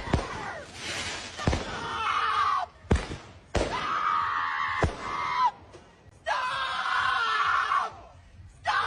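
A woman screaming over and over in long, drawn-out screams, each held about two seconds, while fireworks go off with sharp single bangs between and during the screams.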